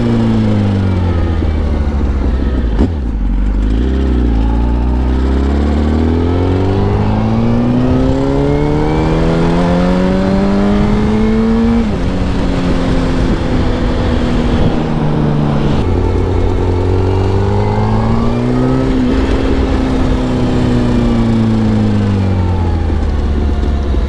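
Yamaha R1's inline-four engine pulling hard through the gears: the pitch climbs, drops sharply at a gear change about halfway through, climbs again, then falls away as the bike slows near the end.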